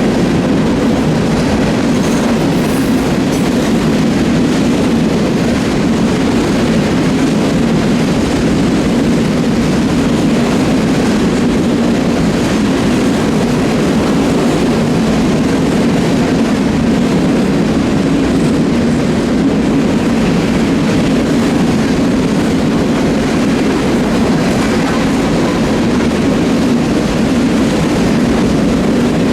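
Train cars rolling past on the rails, a loud steady rumble that keeps on without a break.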